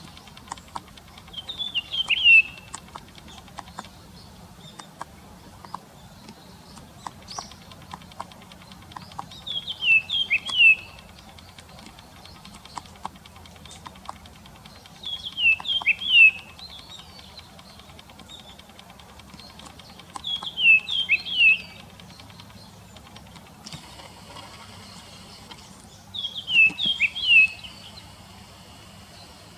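Japanese grosbeak calls from a field-guide recording: five short phrases of quick, high, falling notes, one every five to six seconds.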